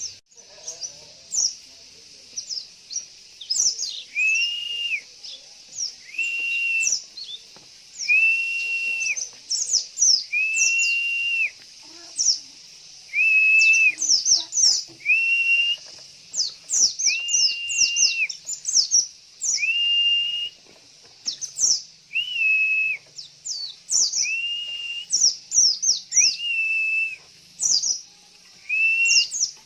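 Pleci (white-eye) songbirds singing: a dense run of quick, high, downward-sweeping chirps over a level held whistle of about a second, repeated every second or two.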